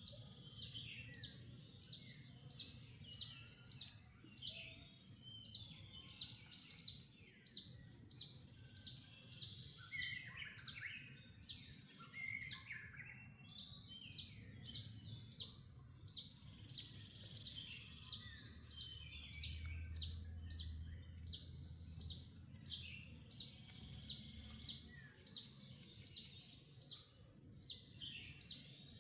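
A bird calling over and over, short high chirps that fall in pitch, about two a second, with a few lower chirps from other birds about ten seconds in, over a low rumble of outdoor background noise.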